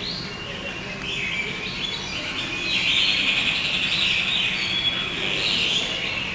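A flock of birds chirping and chattering together in a dense, overlapping chorus that grows louder about three seconds in.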